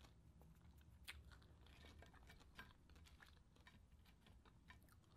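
Faint crackly clicks and crunches from chewing and handling crispy deep-fried pork intestine (chicharon bulaklak), scattered over near silence.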